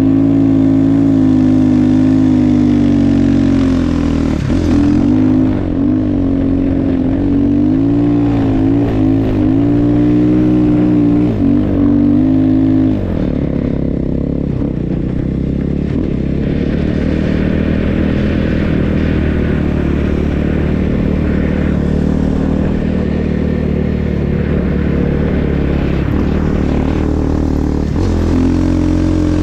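Snow bike's single-track dirt-bike engine running under load, held at a steady high note at first, then rising and falling with the throttle for several seconds before dropping to a lower, steadier note about halfway through and picking up again near the end.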